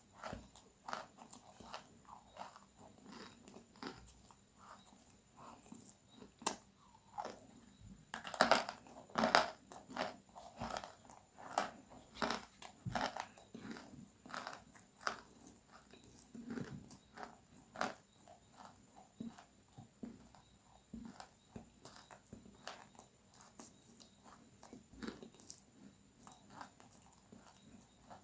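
Close-miked crispy food being bitten and chewed, a run of irregular dry crunches and crackles, loudest in a dense cluster about eight to ten seconds in.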